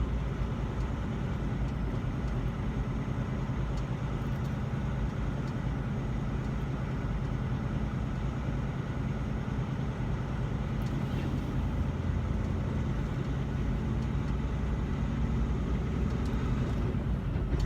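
Steady low drone of a semi truck's diesel engine, with road noise, heard inside the cab while driving.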